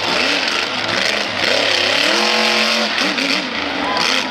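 Monster truck engine revving hard, its pitch rising and falling over and over, over a steady background roar.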